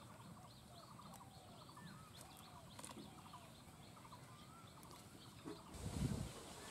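Several birds calling: a quick run of short high chirps over lower, drawn-out curving calls. Near the end, a brief low rumble is the loudest sound.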